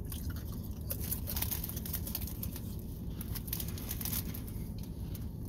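Crisp crunching of a saltine cracker being bitten and chewed close to the microphone, a run of irregular crackles that fades out near the end, over a steady low hum.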